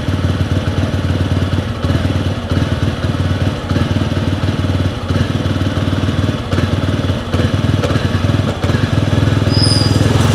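Motorcycle engine idling just after a cold start, having stood unused for a week. It runs unevenly, dipping briefly a few times, then steadies and grows louder near the end.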